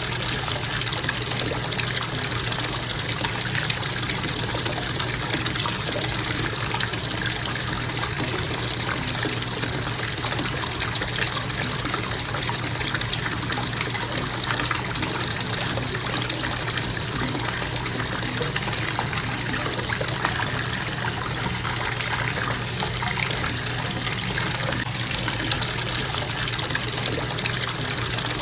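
Bathtub faucet running in a constant, steady stream of water splashing into the tub.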